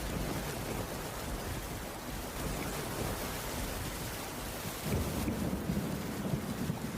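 Heavy rain falling steadily on a cabin roof, with a low rumble swelling about five seconds in.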